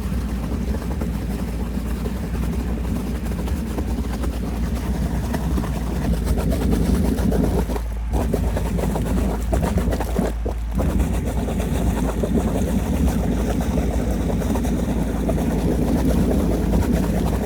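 Sewer jetter running steadily, an engine drone under the rush of high-pressure water, as it flushes sludge out of a clogged septic leach line. The sound dips briefly twice.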